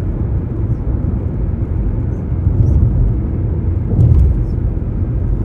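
Steady low outdoor rumble, with a few faint high chirps and a brief clatter about four seconds in.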